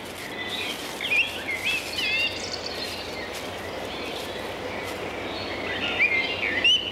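Small birds chirping, short rising and falling notes in a cluster about a second in and another near the end, over a steady outdoor hiss.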